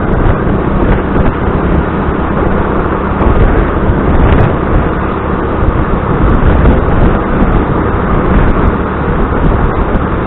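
Motor scooter running while being ridden along a road, under a loud, steady rush of noise.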